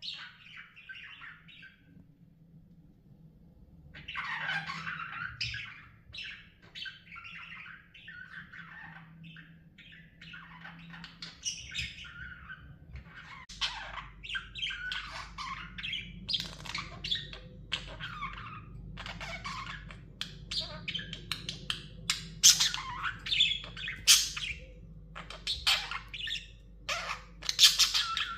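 Budgerigars chattering: a stream of short squawks, chirps and warbles. It starts about four seconds in and grows busier and louder through the second half, with sharp, loud chirps near the end.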